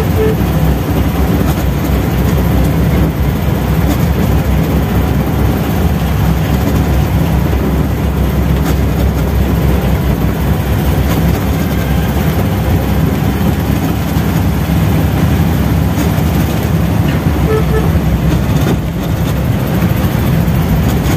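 Classic Volkswagen's air-cooled 1200 cc flat-four engine running steadily under load while climbing a steep hill, heard from inside the cabin.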